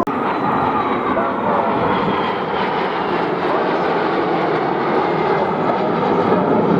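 Fixed-wing display aircraft flying past, its engine noise steady and loud, with a faint high whine slowly falling in pitch.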